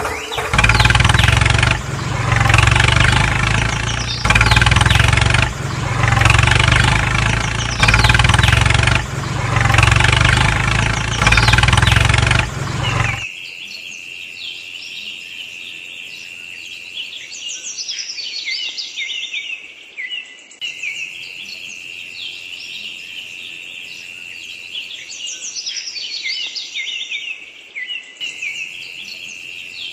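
Loud music with a pulsing bass beat cuts off abruptly about 13 seconds in. After it come birds chirping over a steady high-pitched insect drone.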